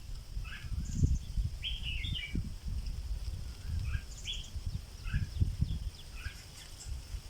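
A caged decoy stripe-throated bulbul singing short, bubbly, warbled phrases, one about every second, over a low rumble.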